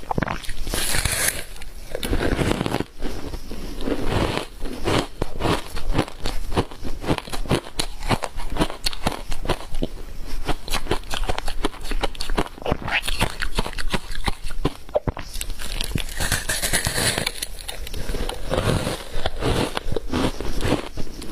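Someone biting and chewing matcha powder ice close to the microphone: a dense, continuous run of sharp crunches and cracks.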